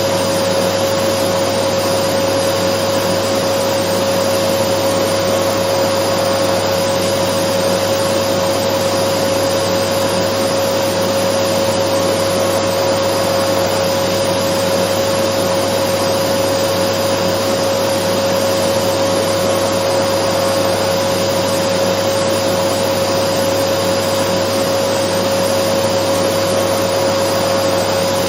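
Dyson vacuum cleaner running steadily: an even rushing hiss with a constant high motor whine, no change in speed.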